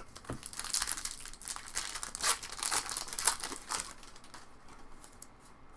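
A trading-card pack's plastic wrapper being torn open and crinkled, a dense crackling lasting about three and a half seconds before fading to quieter handling.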